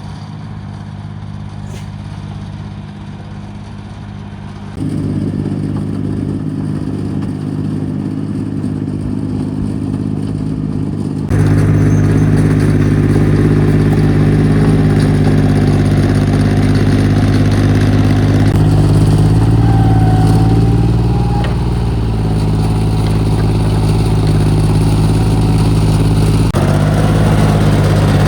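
Mini excavator's diesel engine running steadily. It gets louder in two sudden steps, about five and eleven seconds in.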